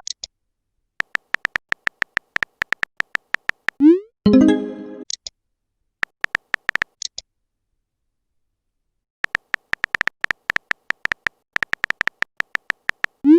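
Messaging sound effects: runs of rapid, evenly spaced typing clicks, about eight a second, stopping and starting with silent gaps. About four seconds in, a short rising blip and a brief chime-like tone sound, as when a message is sent or arrives.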